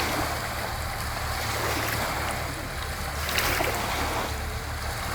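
Steady rushing water with a constant low rumble underneath, swelling slightly about three seconds in.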